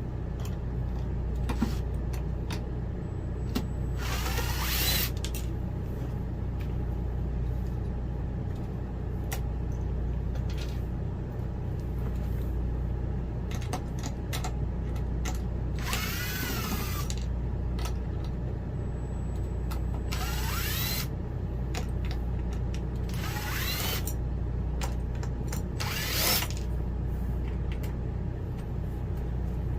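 Cordless drill driving screws in five short runs of about a second each, its motor whine sweeping up and down in pitch. A steady low hum runs underneath.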